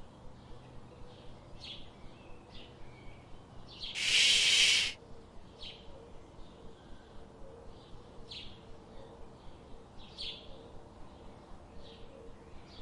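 Birds chirping, short high calls repeating every half second or so. About four seconds in, a loud rushing burst of noise lasts about a second.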